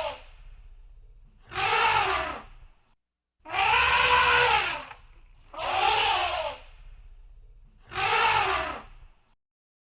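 Elephant trumpeting: the end of one call, then four loud calls about two seconds apart, each about a second long and rising then falling in pitch.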